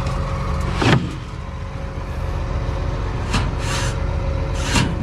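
Engine of farm machinery running steadily at idle, with three short rushing noises over it: one about a second in, one around the middle and one near the end.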